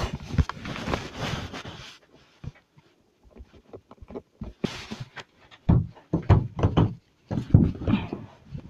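Rustling of a coat being pulled on and handled, then a quick run of dull thuds: footsteps.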